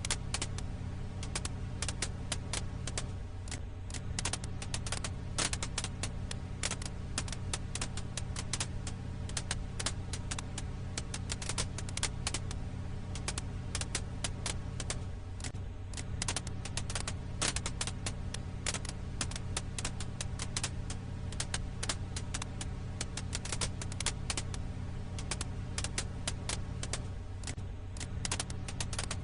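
Firewood crackling in a campfire: dense, irregular sharp pops and snaps over a steady low rumble.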